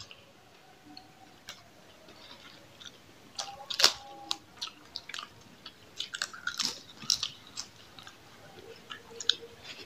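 Close-up eating sounds: chewing, biting and wet lip smacks from people eating rice and fried food by hand. The first three seconds are almost quiet, then sharp mouth clicks and smacks come scattered through the rest.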